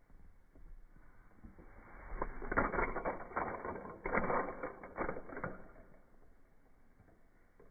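A burst of rapid mechanical clicking and rattling that swells about two seconds in and dies away about three and a half seconds later.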